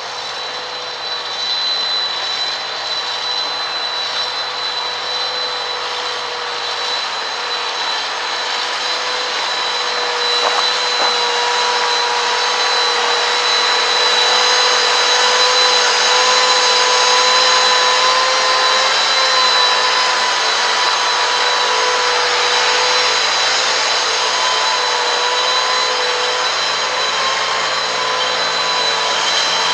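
Road-construction machinery running steadily: a loud hiss with a steady high whine, slowly getting louder over the first half.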